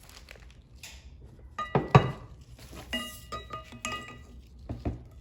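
Metal part being fitted onto a steel axle shaft: a knock about two seconds in, then several light metallic clinks that ring briefly.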